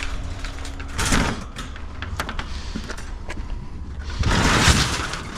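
Metal wire dog cage being handled and loaded as scrap: scattered clanks and rattles, with a louder scraping clatter about four seconds in.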